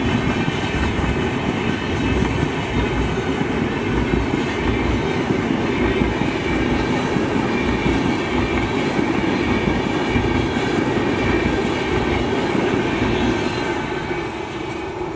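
Passenger coaches of an express train rolling past, a steady rumble of wheels on the rails that fades near the end as the last coach goes by.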